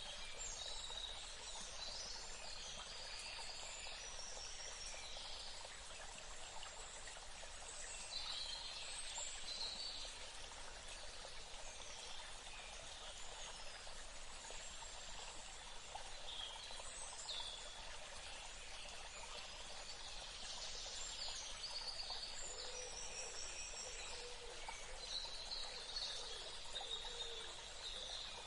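Steady rush of flowing water, with birds singing in short, high phrases every few seconds over it.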